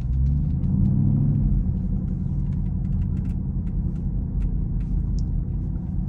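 Dodge Hellcat's supercharged 6.2-litre V8 running at low speed with a steady, low rumble that swells slightly in the first second or so.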